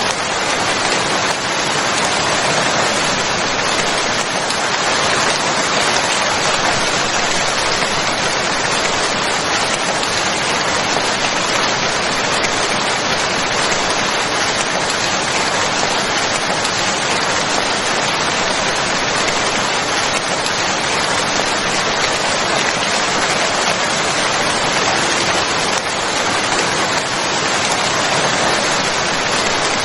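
Steady rain falling and pattering on a surface, an even hiss without breaks.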